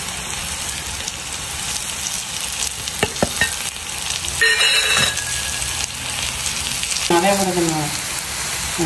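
Raw-banana and onion vadai filling sizzling in oil in a kadai while it is stirred with a wooden spatula, a steady frying hiss. There are a couple of light knocks about three seconds in.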